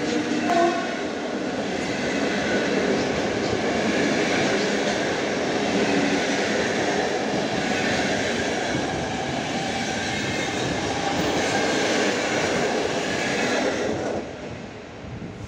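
Passenger coaches of an intercity train rolling past on the rails: a steady rumble of wheels on track that drops away suddenly about fourteen seconds in as the last coach clears.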